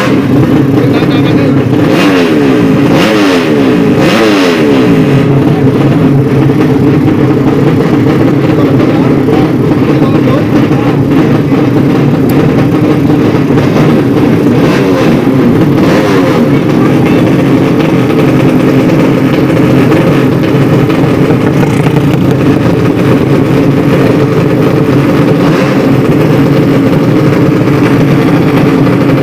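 Racing motorcycle engines at high revs, several at once, with revs sweeping up and down in the first few seconds.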